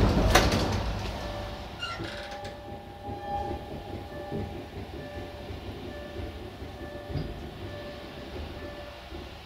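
Passenger train running along the track, heard from its rear: a loud rushing noise fades away over the first two seconds, leaving a quieter steady rumble with a few faint steady tones.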